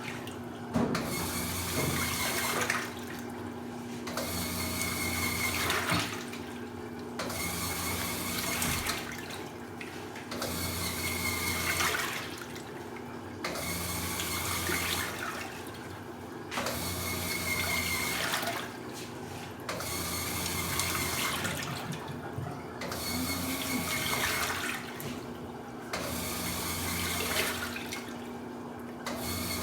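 Washing machine washing a load, water sloshing in regular strokes about every three seconds, each followed by a short pause, over a steady low hum.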